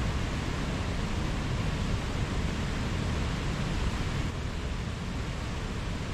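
Mountain stream rushing over rocks: a steady, full water noise with a heavy low rumble.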